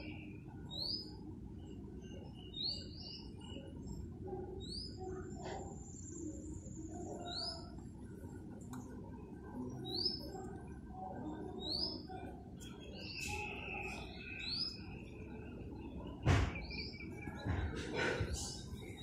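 Small birds chirping: a short rising chirp repeated every second or two, with other bird calls behind it. A sudden knock sounds about sixteen seconds in, with softer knocks a couple of seconds later.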